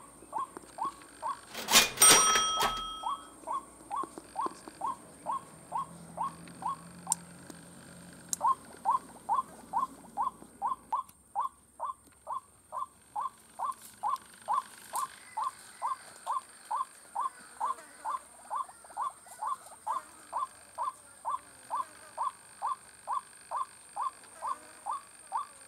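White-breasted waterhen calling: a long, even series of short, harsh notes about two per second, pausing briefly twice and then resuming. A loud, sharp, ringing burst cuts in about two seconds in.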